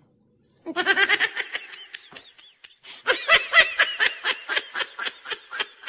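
High-pitched laughter in quick rapid bursts. It starts about a second in, eases off, then swells again about three seconds in. It is a laugh reacting to the joke just told.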